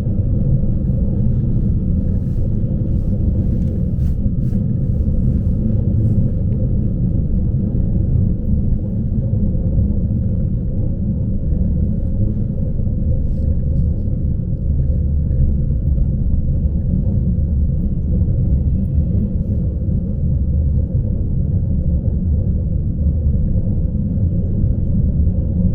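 Steady low rumble inside a Lastochka (Siemens Desiro RUS) electric train carriage, with a few faint clicks in the first few seconds.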